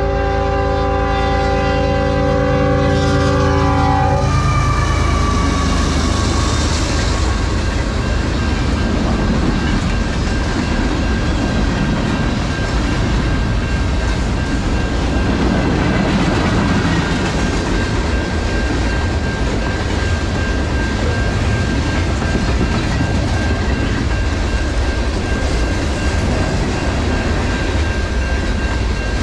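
CN freight locomotive's horn holding a multi-note chord that cuts off about four seconds in. After it, the rumble and clickety-clack of a long freight train's cars passing the level crossing at speed, with the crossing bell's steady tone ringing behind.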